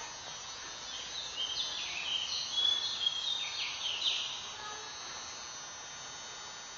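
A quick run of short, high-pitched chirps or squeaks, each sliding down in pitch, over a steady background hum.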